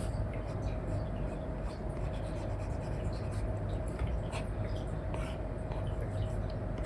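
Apple Pencil 2 with an Elecom replacement nib scratching and tapping in short strokes on a paper-like screen protector over an iPad, over a steady low hum.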